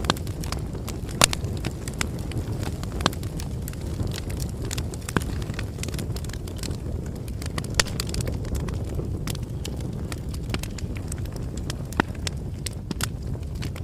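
Bonfire crackling: a steady low rumble of burning wood with frequent sharp pops and snaps, the loudest a little over a second in, at about three, five and eight seconds, and at twelve seconds.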